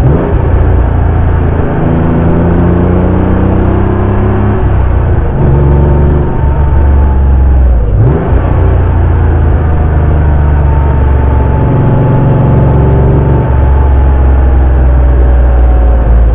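Porsche 911 (964) air-cooled flat-six engine on the road, its pitch climbing slowly as the car pulls and dropping at each gear change, several times.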